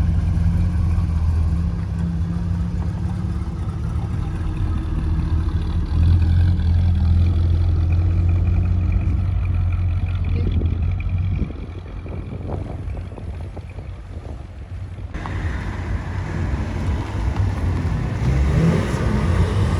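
Car engine running with a deep, steady low rumble that drops in level about eleven seconds in. The sound changes abruptly about fifteen seconds in, and an engine revs near the end.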